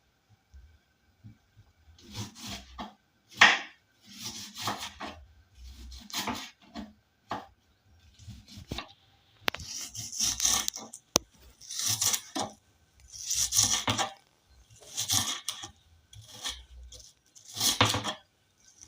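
Knife slicing through bulb onion on a chopping board, in short irregular cuts about once a second.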